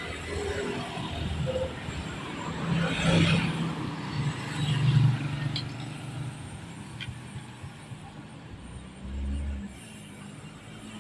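Town road traffic: motor vehicles running and passing, loudest about three and five seconds in.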